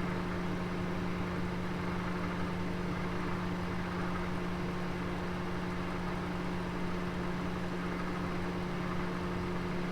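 Oven running with a roast inside: a steady, even hum over a faint hiss.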